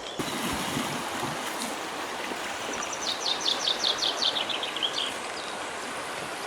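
Steady rush of a flowing stream, with a bird singing a rapid trill of about a dozen high notes midway, the last notes dropping in pitch.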